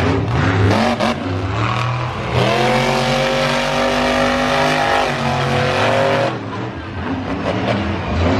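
Monster truck engine revving hard: the pitch swings up and down, then about two and a half seconds in it climbs to high revs and holds there for about four seconds before dropping back.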